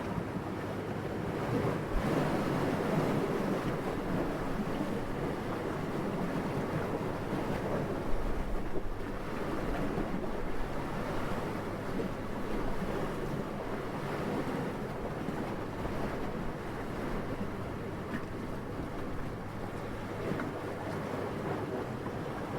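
Steady, soft wind with a low rushing sound, swelling a little in gusts now and then.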